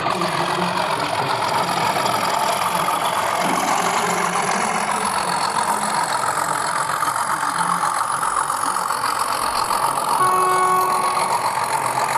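Steady din of a busy model railway exhibition hall, with a short held pitched tone about ten seconds in.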